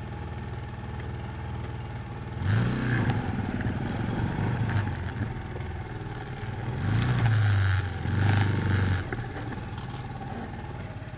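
200 cc quad bike engine idling, revved up twice for a couple of seconds each, about two and a half seconds in and again about seven seconds in, then settling back to idle.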